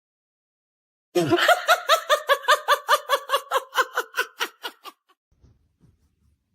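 A high-pitched run of laughter: quick bursts about six a second that start about a second in and fade away over some four seconds.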